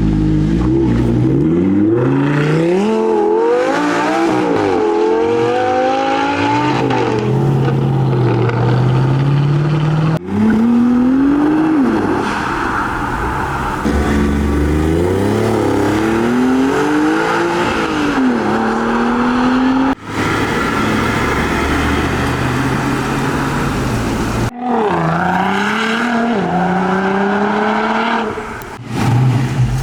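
High-performance car engines accelerating away, the pitch climbing and dropping again and again with each gear change, in four short clips cut one after another.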